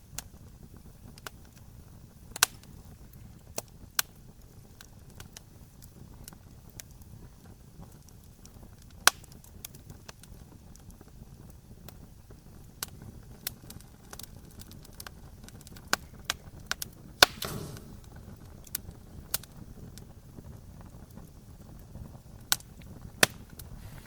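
Wood fire crackling: irregular sharp pops and snaps over a low steady rumble, with a brief louder hissing flare and pop about two-thirds of the way through.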